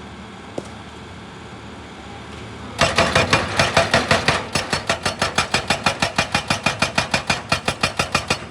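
Excavator engine running steadily, then about a third of the way in a hydraulic breaker hammer starts hammering, a fast, even run of sharp blows at about seven a second.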